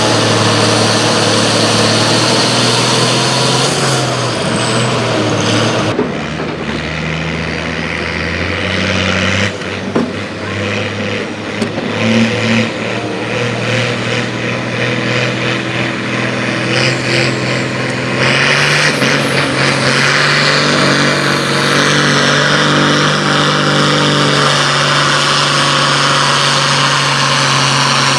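Loud engine of a tractor-pull or truck-pull vehicle running steadily. The sound changes suddenly about six seconds in, and the engine note strengthens again from about eighteen seconds.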